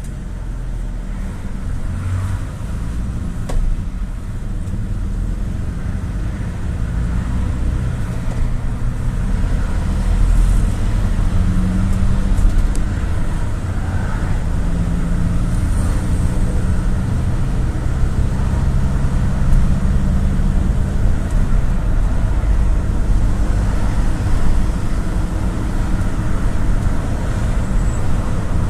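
GAZelle City minibus under way, heard from inside the passenger cabin: diesel engine and tyre and road rumble, growing louder over the first ten seconds or so as the bus picks up speed, then steady.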